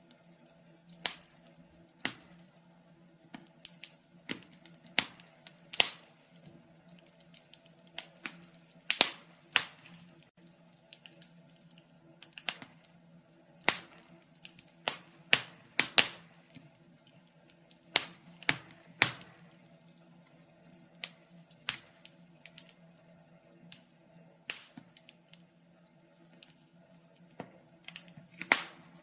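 Wood fire crackling in a fireplace: irregular sharp pops and snaps, at times several in a second, over a faint steady low hum.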